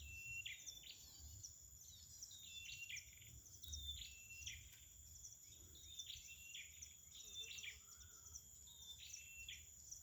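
Small songbird, the perenjak kepala merah (ashy tailorbird) used in bird luring, giving short chirping calls over and over, about one or two a second, each a quick downward flick into a brief level note. A steady high insect drone runs underneath.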